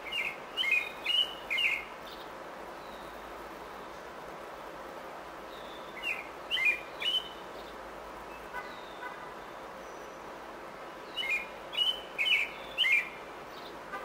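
Bird chirping in three short bursts of three or four sharp, quick notes each, about five seconds apart, over a steady background hiss.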